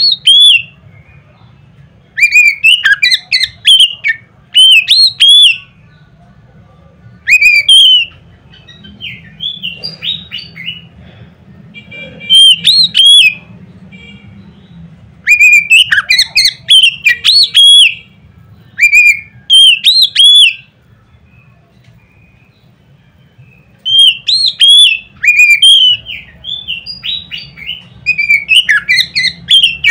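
Oriental magpie-robin (kacer) singing loud, clear whistled phrases of sliding notes. The phrases come in bursts of a few seconds with short pauses between them, one of them softer.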